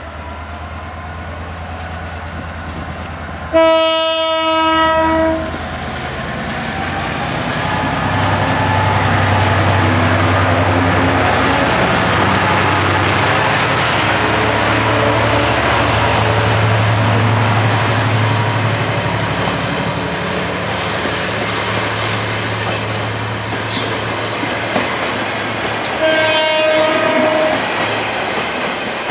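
Diesel passenger train passing close by: the locomotive sounds a horn blast of about two seconds, then its engine rumbles louder as it goes past, followed by the coaches rolling by with clattering wheels. A second, shorter horn blast comes near the end.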